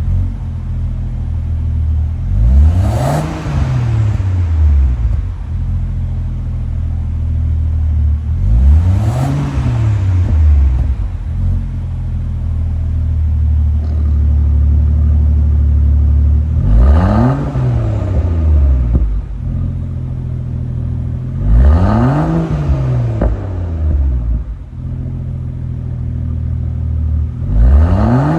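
All-new Land Rover Defender with an aftermarket full valved (variable) exhaust, idling and blipped about five times, each rev climbing and dropping back to idle over about two seconds.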